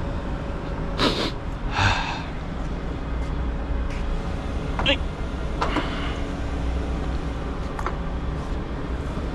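Resistance spot welder running with a steady hum, the noisy machine idling between welds, with a few short sharp bursts over it about one, two, five and six seconds in.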